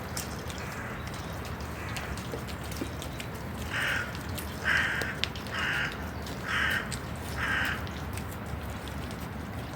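A crow cawing five times, about one harsh caw a second, over a steady low background noise.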